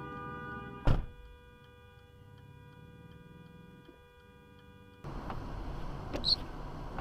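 Steady hum with faint regular ticking, broken about a second in by one loud bang, a vehicle collision. About five seconds in, louder road noise takes over, with two short high squeaks.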